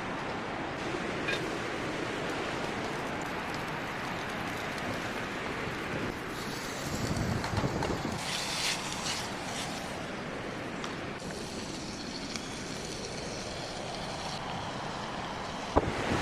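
Strong wind blowing steadily, with a louder gust and rustling through the middle.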